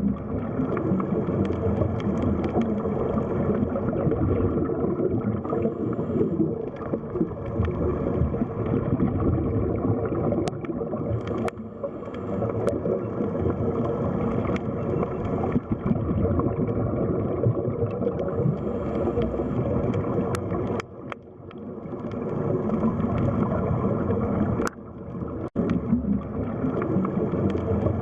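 Underwater sea ambience: a steady low, gurgling wash of water, with a couple of short dips in level and a few faint clicks.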